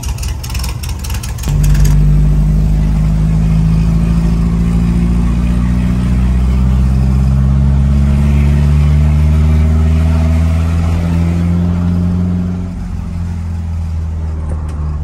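A 1976 Volkswagen Brasília's rear-mounted air-cooled flat-four, heard from inside the cabin. After a brief rapid clatter, the engine note comes in loud about a second and a half in and pulls steadily, its pitch slowly rising as the car gathers speed. The note drops about 13 seconds in as the throttle comes off.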